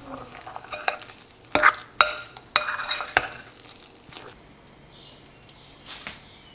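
Kitchen utensil working in a bowl or pan while cottage cheese pancakes are made: a few sharp clinks and knocks with stirring in the first three seconds or so, then quieter.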